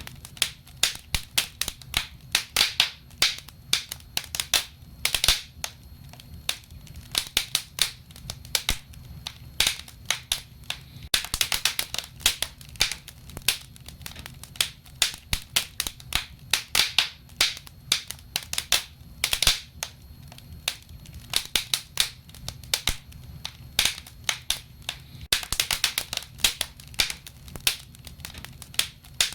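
Wood fire burning in a fireplace: dense, irregular crackling and popping of the burning logs over a low steady rumble of the flames.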